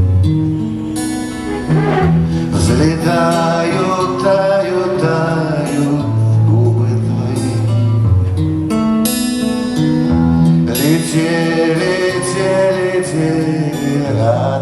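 Instrumental passage of a live song: acoustic guitar strummed and plucked over long held low notes that change every second or two.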